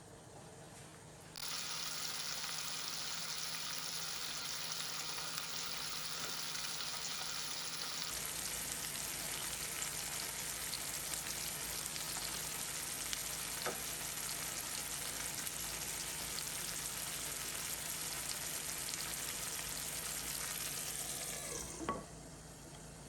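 Food sizzling in a hot frying pan: a steady sizzle that starts about a second and a half in and dies away near the end just after a knock.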